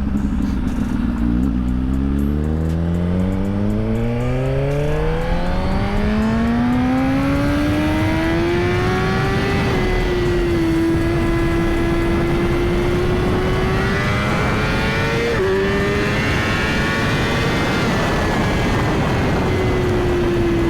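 Suzuki GSX-R1000's inline-four engine accelerating hard, its pitch climbing steadily for about eight seconds, then holding at high revs with a quick jump about three-quarters of the way through and easing down near the end. Constant wind rush over the microphone.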